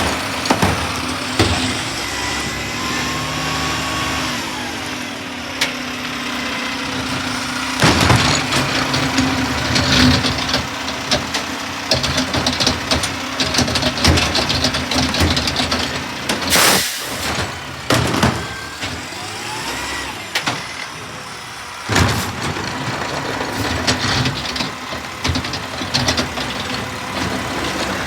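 Garbage truck engine running steadily, with repeated clanks and knocks and a short, sharp hiss about 17 seconds in.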